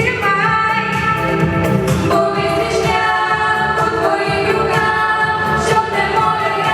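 Singing with musical accompaniment: voices holding long sung notes over a steady backing track.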